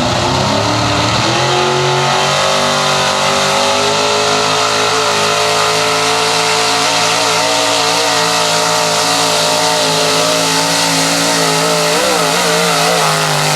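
6200 big-block high-output pulling truck's engine at full throttle under load, its pitch rising over the first second or so and then held steady and high, with a brief wavering in pitch near the end.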